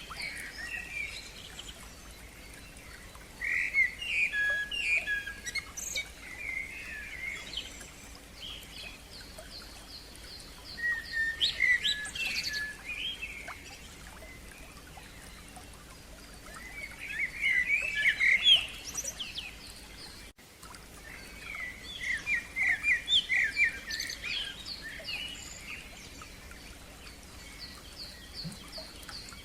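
Songbirds singing in four bursts of quick, varied whistled phrases, with another bird keeping up a steady run of short, high repeated notes in between.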